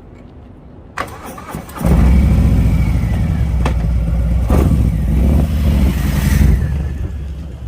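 Harley-Davidson Fat Bob's Milwaukee-Eight 114 V-twin with a Vance & Hines exhaust being started: the starter engages about a second in, the engine catches just under two seconds in and runs loud and deep, then eases lower near the end.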